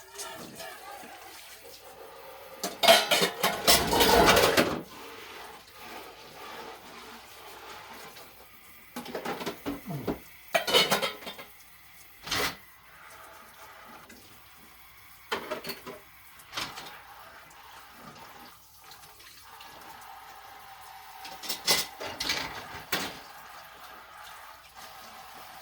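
Dishes and cutlery clattering as they are washed and handled at a kitchen sink, in several separate bursts, the loudest about three to four and a half seconds in.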